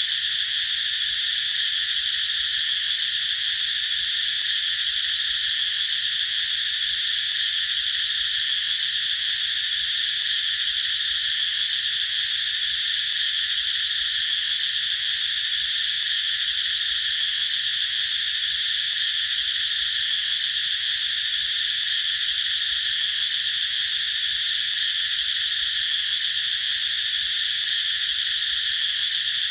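A chorus of cicadas singing: a dense, high-pitched buzz that holds steady at the same level with no pauses.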